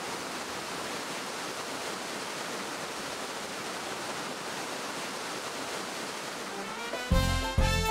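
A steady, even rushing noise with no distinct events, like running water or wind noise; music starts near the end.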